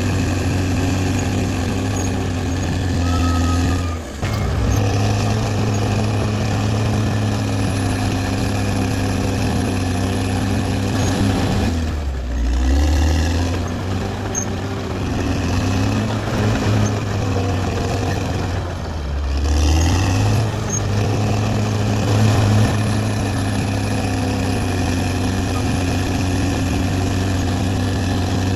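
Caterpillar D6R XL bulldozer's diesel engine running steadily. Its note sags lower for a moment about four seconds in, again around twelve seconds and around nineteen seconds, then picks back up.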